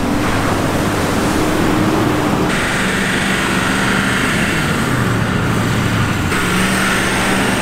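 Vehicle engines running steadily, with abrupt changes in the sound about two and a half seconds in and again near the end, as if cut between shots.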